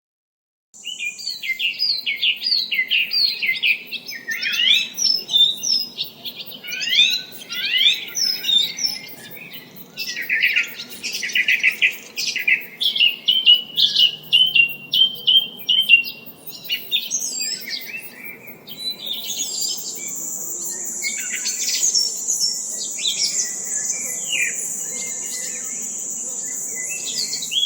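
Birdsong: several birds chirping and singing in quick, rapid phrases. About twenty seconds in, a steady high-pitched trill joins and holds to the end.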